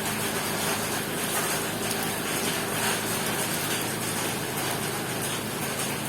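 2020 Ford Ranger's turbo-diesel engine idling steadily after being started.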